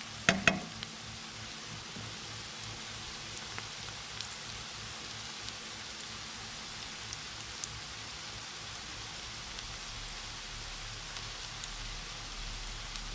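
Diced onions sizzling steadily in hot oil in a frying pan as they start to turn golden, with a few faint crackles. Two sharp knocks come just after the start.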